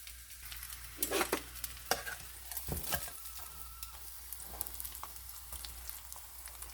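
Salted dried parrot fish frying in hot oil in a pan: a steady sizzle with many small crackling pops, a few louder pops and a knock about three seconds in.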